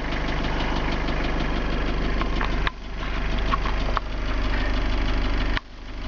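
Vehicle engine idling steadily, heard from inside the cab, with a fine even pulsing. The sound drops away briefly three times and picks up again.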